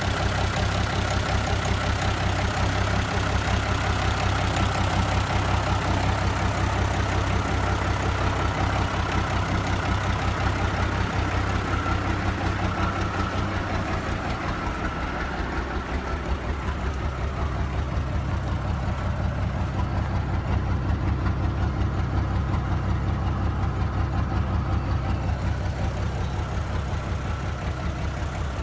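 Isuzu turbo diesel engine of a 1993 GMC W5500 truck running steadily at idle, with an even rapid pulse. The pitch of its low rumble shifts slightly about halfway through.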